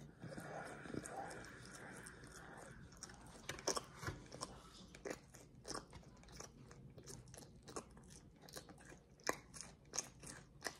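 A person chewing a mouthful of chicken wing: faint, irregular mouth clicks and crunches, with a few louder ones scattered through.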